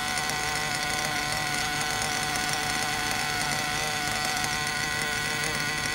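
Werks B5 two-stroke nitro RC engine idling steadily on its first break-in tank. It is tuned to run rich so that it spits unburnt fuel, the sign of proper lubrication.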